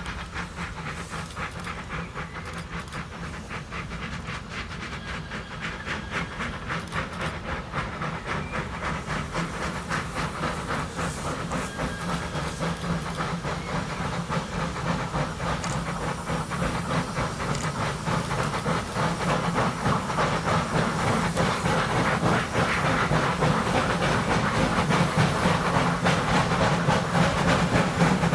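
Steam locomotive working, its exhaust beating in a rapid, steady rhythm over hissing steam, growing steadily louder.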